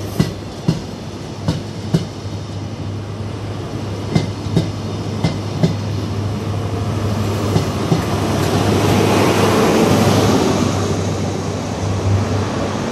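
A High Speed Train's Mk3 coaches rolling past, the wheels clicking over rail joints in close pairs, over a steady low diesel hum. About two-thirds of the way in, the rear Class 43 power car's diesel engine swells up as it goes by, then fades as it moves away.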